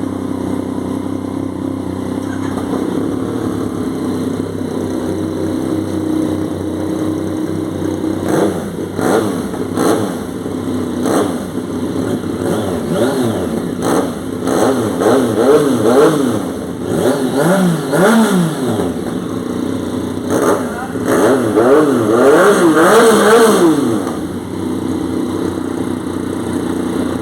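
Yamaha MT Tracer motorcycle engine idling, then revved in a series of quick throttle blips from about eight seconds in, the pitch rising and falling with each one. The longest and loudest revs come near the end before it settles back to idle.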